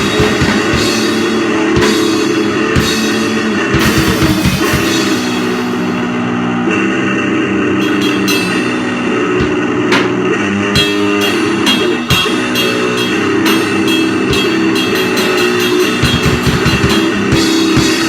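Live powerviolence band playing loud: heavily distorted guitar and bass in a dense wall of noise over pounding drums and cymbals, with a run of rapid drum strokes near the end.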